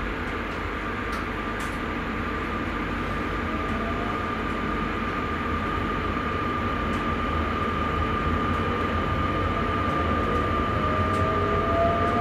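Sprinter electric train running, heard from the driver's cab: a steady rumble with a high whine that rises slowly in pitch and grows louder as the train gathers speed.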